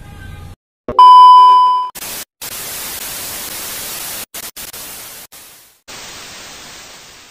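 A loud beep at one steady pitch for about a second, then a hiss like television static that cuts out briefly several times and fades away near the end.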